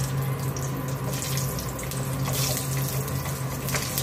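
Whole garlic cloves sizzling and crackling in hot rendered chicken fat in a pan, with a steady low hum underneath.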